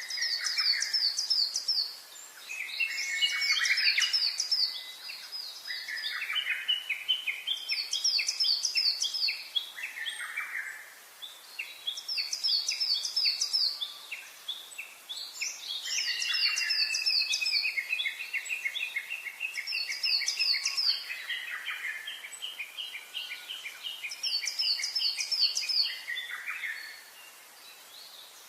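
Songbirds singing: bursts of quick high trills every few seconds, overlapped by lower rapid trilled phrases, one of them long and held for several seconds. The song fades near the end.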